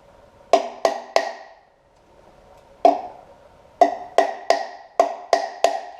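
Sharp metal-on-metal strikes, each with a short pitched ring: three quick ones, a single one, then six in a row. They come from hammering on the pry bar to break the front timing cover of a 3.7 L Atlas inline-five loose from the block.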